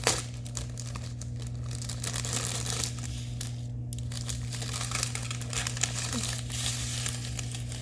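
Plastic packaging of a diamond painting kit crinkling and rustling continuously as it is handled and unpacked, with irregular crackles.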